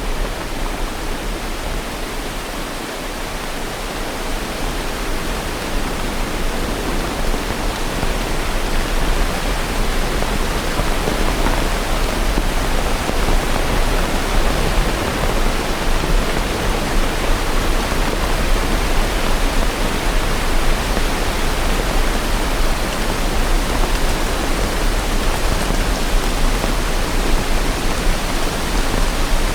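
Steady rain, a dense even hiss with no single drops standing out; a little softer a few seconds in, then holding steady.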